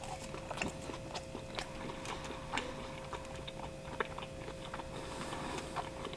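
A person chewing a mouthful of pizza close to the microphone: irregular small wet clicks and smacks of the mouth, several a second.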